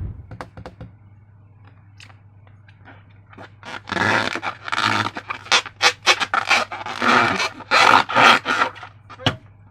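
Slime and a rubber balloon being squeezed and worked by hand: a few faint clicks at first, then from about four seconds in a run of loud squelching, rubbing squishes, roughly two a second.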